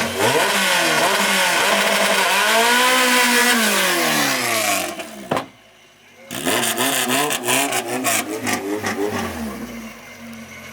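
Car engines revving hard, the pitch climbing and falling over a couple of seconds. The sound cuts off abruptly about five seconds in, then revving starts again with a run of sharp cracks and eases to a lower, steady engine note near the end.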